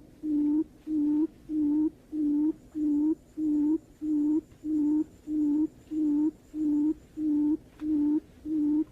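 Barred buttonquail call: a long, even series of low hollow hoots, about two a second, the call used to lure buttonquail in.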